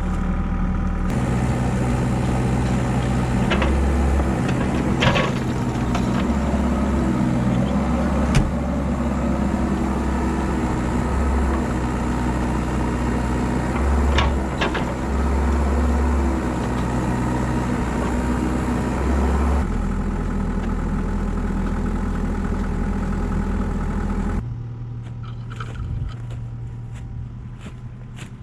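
Compact excavator's diesel engine running under hydraulic load while it works a tree stump, its pitch shifting as the load comes and goes, with a few sharp knocks. Near the end the engine drops back to a lower, quieter idle.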